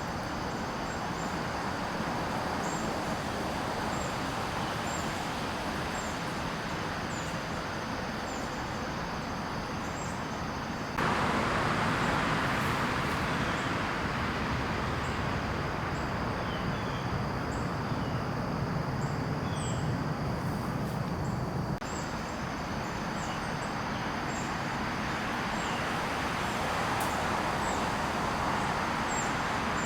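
Outdoor garden ambience: a steady rushing background noise like distant road traffic, under a high insect drone and short high chirps repeating about once a second. A few small birds chirp in the middle stretch. The ambience jumps louder abruptly about a third of the way in and drops back about two-thirds of the way in.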